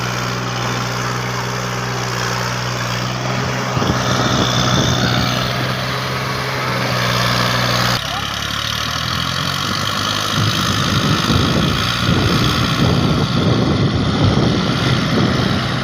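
Massey Ferguson 240 tractor's diesel engine running steadily. After a break about eight seconds in, it sounds rougher and slightly louder.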